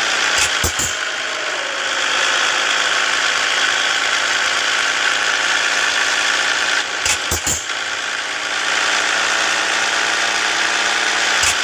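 A Scania S 450 truck's inline-six diesel engine running with a steady drone. A few short knocks sound through it: about half a second in, around seven seconds, and near the end.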